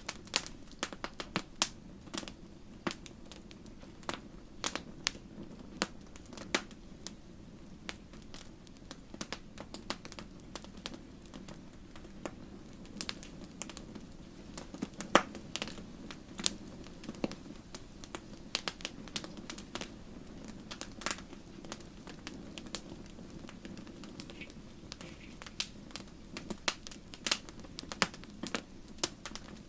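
Wood fire crackling and popping: irregular sharp snaps, a few louder pops, over a steady low hiss of burning.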